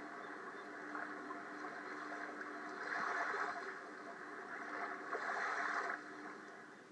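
Bay water washing and lapping, a steady rushing that swells twice, about three seconds in and again near the end.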